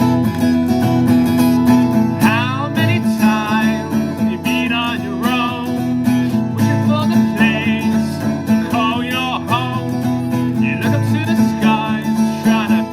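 Acoustic guitar music: steadily strummed chords, with a higher melody line that wavers in pitch coming in and out over them from about two seconds in.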